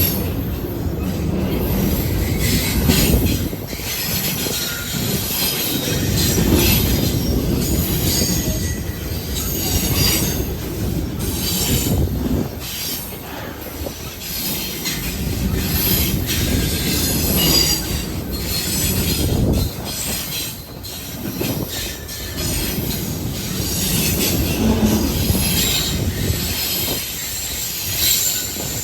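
Train cars rolling past, the wheels squealing high and shrill against the rails over a steady low rumble, with repeated clacks of wheels over the track.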